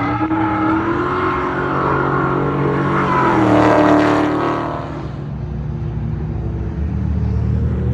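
Performance car's engine running hard while being drifted on a track. It grows loudest about three to four seconds in as the car comes closest, drops off, then revs up again near the end.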